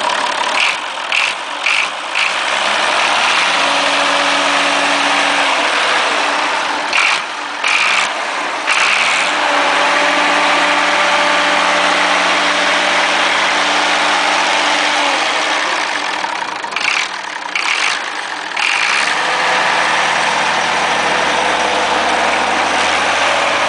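Massey Ferguson 1075 tractor's diesel engine running, revved up and held three times, dropping back toward idle in between.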